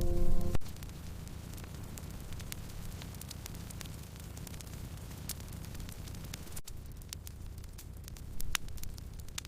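Wood fire crackling: scattered sharp pops and snaps over a low steady rumble of burning logs. A music track cuts off about half a second in.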